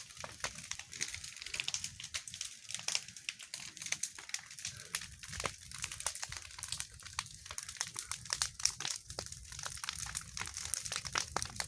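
Bonfire burning, the wood crackling and popping in dense, irregular snaps over a low rumble.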